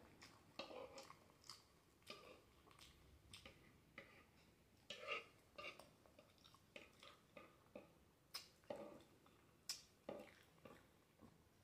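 Quiet, close-miked chewing and lip smacking on black bean noodles, an irregular scatter of soft wet clicks and smacks.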